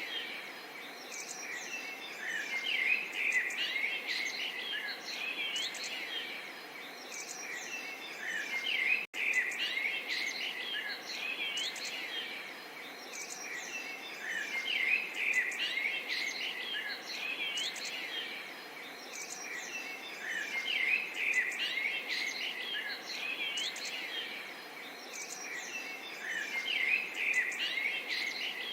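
A chorus of small songbirds chirping and trilling over a faint, steady murmur of running water. The sound cuts out for an instant about nine seconds in.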